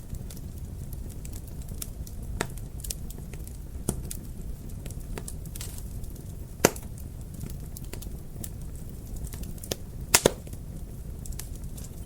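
Wood fire crackling in a fireplace: scattered sharp pops and snaps over a steady low rumble of the burning fire. The loudest pop comes a little past halfway, followed by a close pair of pops near the end.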